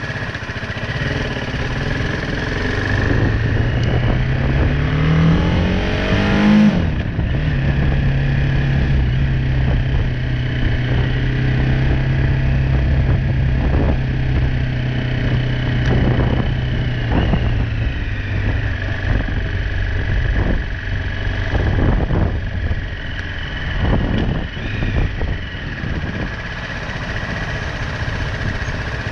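BMW G310R's single-cylinder engine under way. It revs up with a rising pitch, drops sharply at a gear change about seven seconds in, then holds a steady pitch while cruising. The revs ease lower a little past halfway, over steady road and wind noise.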